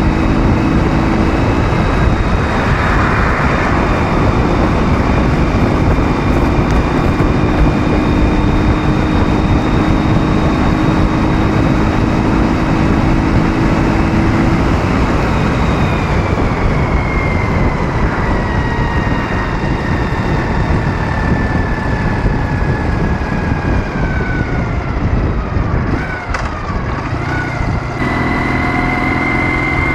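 Ural motorcycle's 650 cc boxer-twin engine running on the road under heavy wind rush. Its pitch holds steady, then falls slowly for several seconds as it slows, and settles on a new steady pitch near the end.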